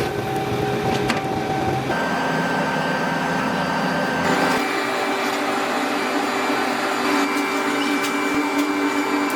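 Steady whine and hum of running workshop machinery, changing abruptly about two and about four and a half seconds in.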